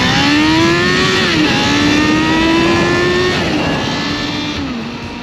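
1987 Suzuki Impulse GSX400X's 400cc inline-four engine revving hard under acceleration. The pitch climbs steadily, drops at an upshift about a second and a half in, and climbs again to a second upshift about three and a half seconds in. Near the end it drops once more and settles to a steadier, slightly quieter note.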